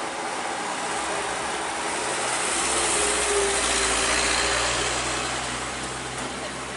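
A heavy truck passing close by: its diesel engine hum and tyre and road noise swell about two and a half seconds in, peak for a couple of seconds, then fade.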